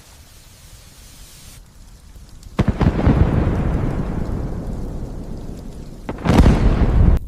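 Two thunderclaps over steady light rain. The first cracks about two and a half seconds in and rumbles away slowly. A second, louder clap comes about six seconds in and cuts off suddenly near the end.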